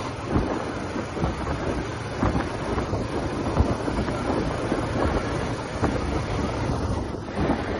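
TVS Apache RTR 180's single-cylinder engine and exhaust running steadily on the move, under heavy wind noise on the microphone.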